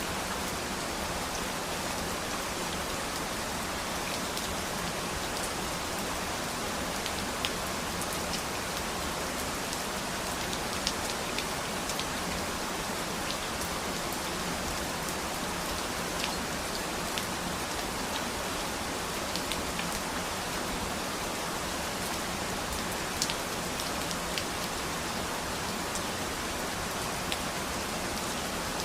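Steady rain falling, an even hiss with scattered louder drops ticking onto a surface.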